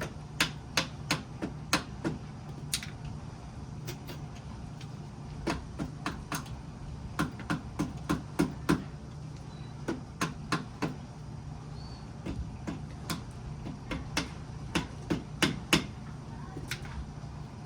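Rubber mallet tapping the water pump cover on a 1997 Honda CR250 engine case: many sharp knocks in quick runs, about two or three a second, with short pauses between runs, to work the stuck cover loose.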